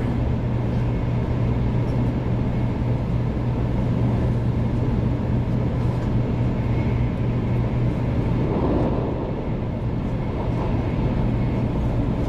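Steady cabin noise inside a 500 Series Shinkansen train running, a continuous low rumble with a brief swell in the noise about nine seconds in.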